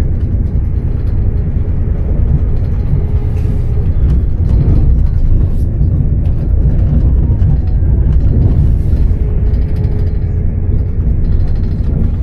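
Steady low rumble of a moving vehicle, with faint voices in the background.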